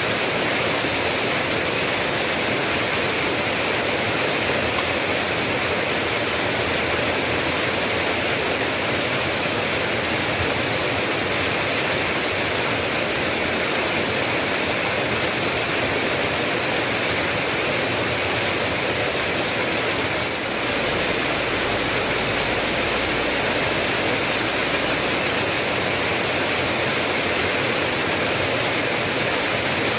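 Steady rain, a continuous even hiss of falling water. About twenty seconds in there is a brief slight dip in level, and a low rumble comes in underneath.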